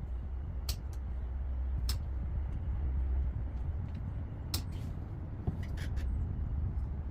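A few sharp clicks and taps of parts or tools being handled on a pit bike, over a steady low rumble.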